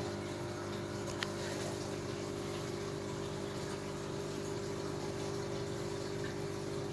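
Large aquarium's pump and sump filtration running: a steady hum with water running through it. A single sharp click about a second in.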